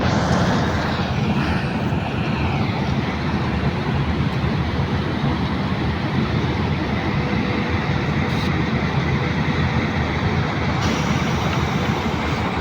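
Asphalt plant machinery running with a steady, loud, even mechanical noise that starts abruptly and holds unchanged.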